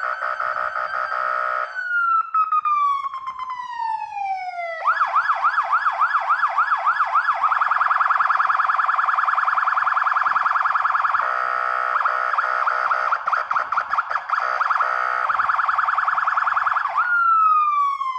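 Fire engine's siren cycling through its tones. A steady high tone drops away in a long falling wind-down. About five seconds in it switches to fast rising sweeps, about three a second, then to a rapid piercing warble, and near the end it falls away in pitch again.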